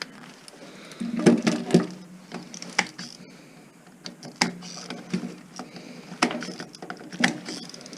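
Scattered clicks and knocks of metal and plastic parts being handled while an old stereo amplifier is taken apart, with short stretches of a low steady hum.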